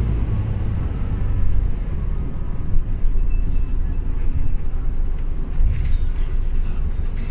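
Scania OmniLink CL94UB city bus driving, heard from inside the cabin: a steady low diesel engine and road rumble, with short rattles and clicks from the body now and then.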